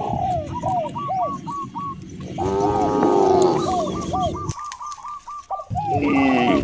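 A bird calls over and over in short hooked notes, two to three a second, with a break near the end. About two and a half seconds in, a cow gives one longer, lower moo, the loudest sound here.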